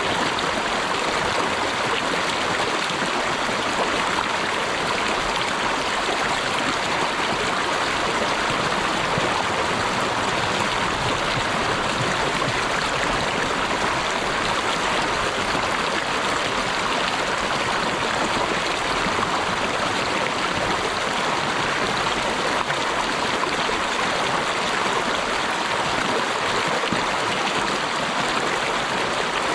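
Flowing water making a steady, even rushing sound with no breaks or separate splashes.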